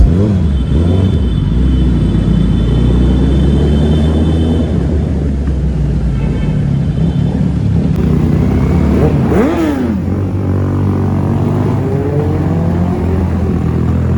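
Kawasaki ZX-10R's inline-four engine running steadily, with one quick rev up and back down about nine seconds in.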